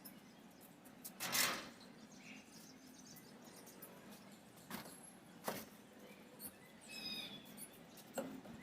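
Budgerigars in an aviary chirping faintly, with a short pitched call near the end. Scattered knocks and rustles are mixed in, the loudest about a second in.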